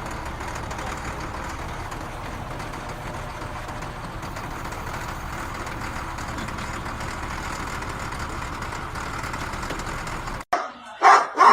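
Steady, even engine-like running noise that cuts off abruptly near the end, followed by a dog barking.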